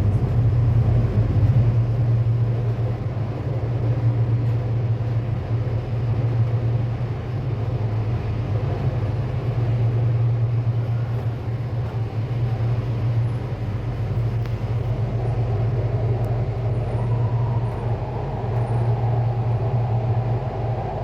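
Sydney Metro driverless train (Alstom Metropolis) running along the line, heard from inside the carriage as a steady low drone with rolling noise.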